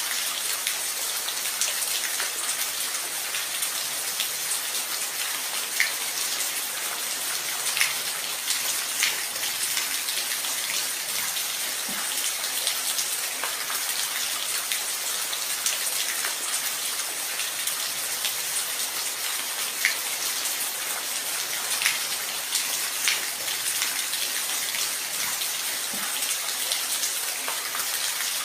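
Steady rain, a dense even hiss with scattered louder drops ticking on a surface.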